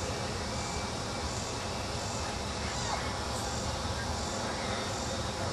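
Evening outdoor background noise with a high insect call, cricket-like, repeating evenly a little more than once a second over a steady low rumble.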